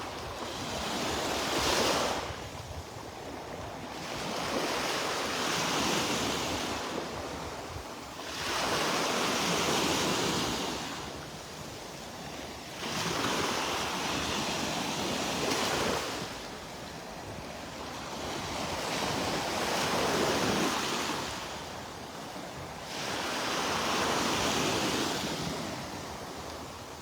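Gentle Gulf of Mexico surf: small waves breaking and washing up the beach, swelling and fading every three to four seconds.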